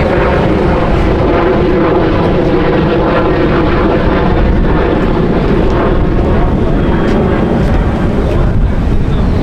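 Car engine running close by, a loud steady drone through a loud exhaust.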